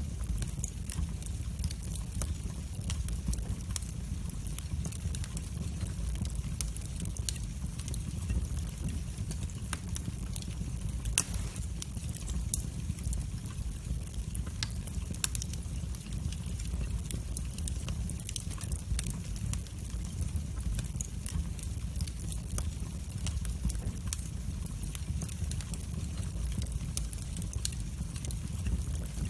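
Wood fire burning in a fireplace: a steady low rumble of flames with frequent small crackles and one sharp pop about 11 seconds in.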